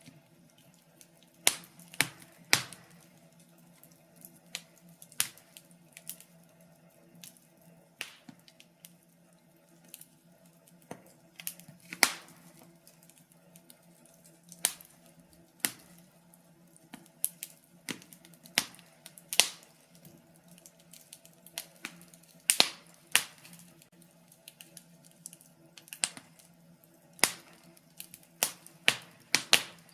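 Wood fire crackling: irregular sharp pops and snaps of burning logs, some louder than others, over a faint steady low hum.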